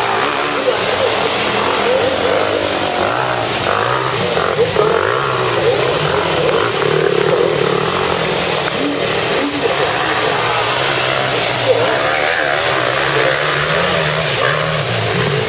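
Motocross dirt bikes' engines running on the track, their pitch repeatedly rising and falling as the riders open and close the throttle.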